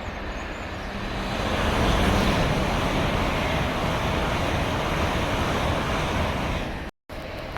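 A passing train: a steady rush of wheel and rail noise that builds over the first two seconds, holds, and is cut off sharply near the end.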